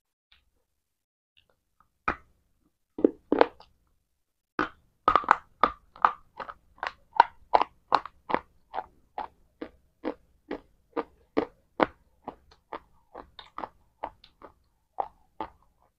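A person eating fruit salad close to a clip-on microphone. There is a bite about two seconds in and a couple of louder crunches, then steady chewing at about three chews a second that fades a little near the end.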